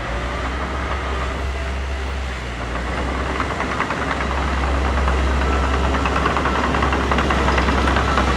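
Heavy diesel earthmoving machine running steadily with a low engine drone. About halfway through, a fast, even clatter builds up and grows louder.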